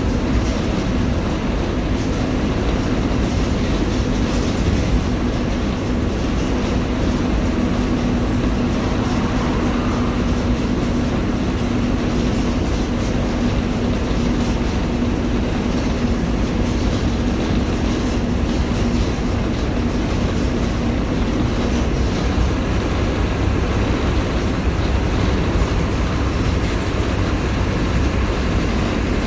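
Mercedes-Benz OF-1721 Bluetec 5 city bus engine running while the bus is under way, with road noise and body rattle. A steady low hum from the engine sits under it and fades out about three quarters of the way through.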